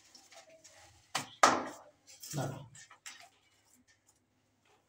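A few sharp knocks and clinks of handled metal tools and wire, the loudest about a second and a half in, then another shortly after.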